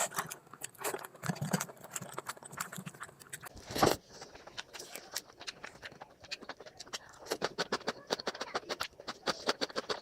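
Close-miked eating sounds: chewing and sharp mouth clicks that come quickly and irregularly, with one louder knock about four seconds in.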